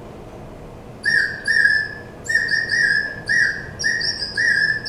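Water-filled bird whistle (water warbler) blown in a string of short warbling, birdlike notes, starting about a second in; the water bubbling inside makes the whistle warble.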